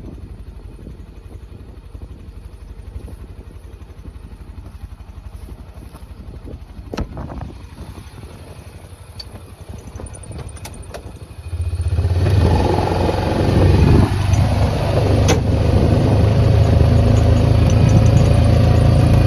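Deutz-Fahr tractor engine running at a low, steady rumble with a few clicks and knocks. About eleven seconds in, it suddenly becomes much louder and runs on steadily.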